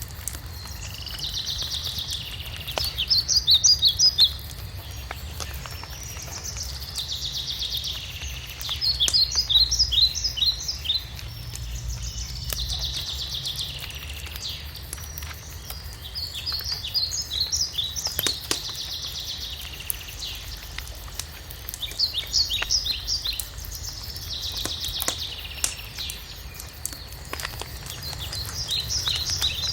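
A songbird repeating the same short song about every five seconds, each time a warbled phrase running into a quick series of notes, over the scattered crackles and pops of a wood fire.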